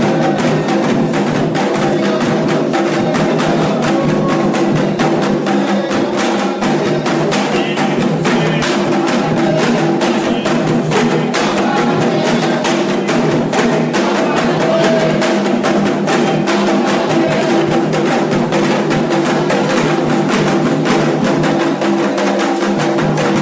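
Candomblé ritual percussion: hand drums struck in a fast, continuous rhythm, with a sharp clicking, wood-block-like strike keeping time over them.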